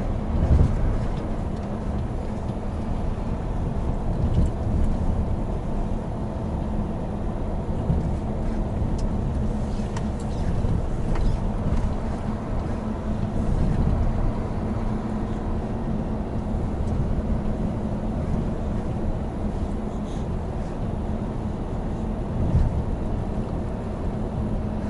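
Hino Profia heavy truck's diesel engine running under way, with steady low road and tyre rumble and a few brief knocks from bumps in the road.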